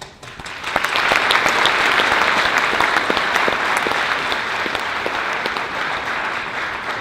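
Audience applauding in a large hall: the clapping swells within the first second, holds steady, and begins to die down near the end.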